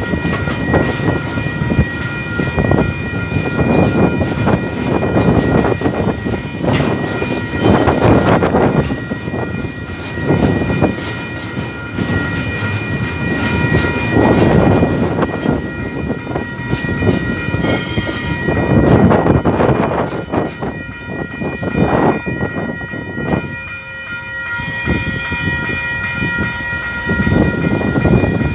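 Freight train of loaded hopper wagons rolling through a level crossing: a rumble and clatter of wheels that swells and fades again and again as the wagons go by. Steady high ringing from the crossing's warning bells runs underneath. The train clears near the end.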